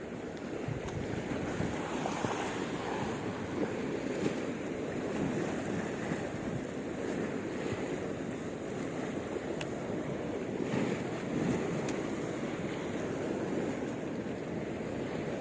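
Sea waves washing onto the shore, with strong wind buffeting the microphone throughout.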